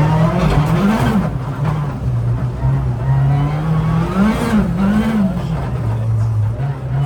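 Ford Fiesta ST rally car's engine being driven hard on ice, its pitch swinging up and back down as it revs, once about a second in and again twice around the middle, between steadier stretches.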